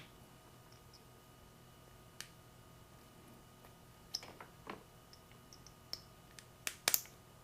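Scattered faint clicks and taps of plastic wiring-harness connectors being handled, with a sharper pair of clicks near the end.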